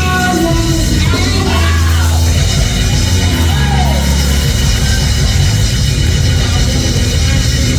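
Church band playing gospel music with a heavy, steady bass. A voice sings or calls out over it for the first couple of seconds, then the band plays on without words.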